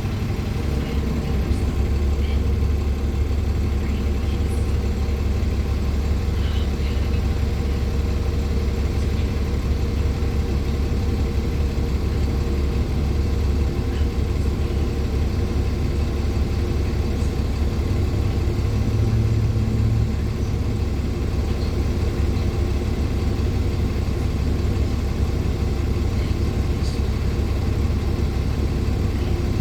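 Interior running noise of a 2014 NOVA LFS articulated hybrid bus, its Cummins ISL9 diesel and Allison hybrid drive giving a steady deep drone. The drone swells slightly and then eases off about twenty seconds in.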